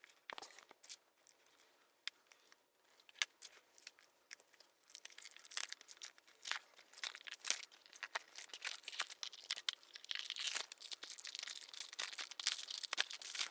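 Packaging crinkling and tearing as it is unwrapped by hand. There are scattered crackles at first, growing denser and louder from about five seconds in.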